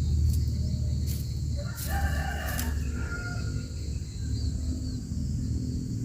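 A bird calling once, a pitched call lasting about a second and a half, over a steady low rumble and a steady high hiss.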